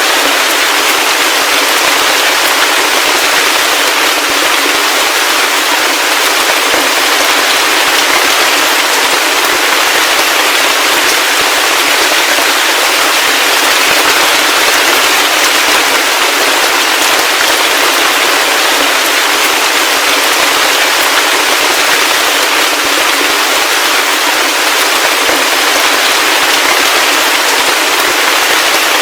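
Heavy rain falling steadily: a dense, even hiss of drops with a fine crackle, thin and without any low rumble.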